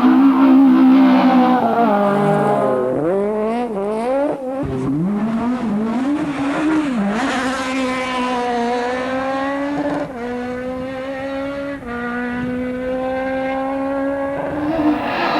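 Four-cylinder S1600 or Maxi kit rally car engine at high revs. The revs drop, then go up and down in quick blips for a few seconds. They climb again and hold high, with brief dips about ten and twelve seconds in.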